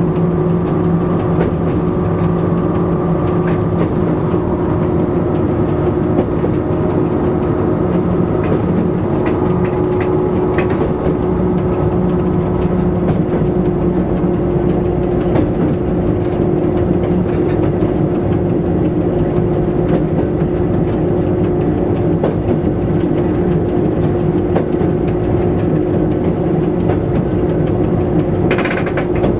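Train running along the track, heard from the cab: a steady drone with wheels clicking over the rail joints. A short hiss comes near the end.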